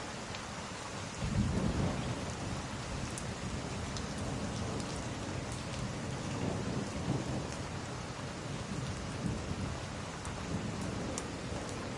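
Steady rain hiss with a rolling thunder rumble. The rumble starts suddenly about a second in and keeps swelling and fading. A few faint pops from a crackling log fire come through now and then.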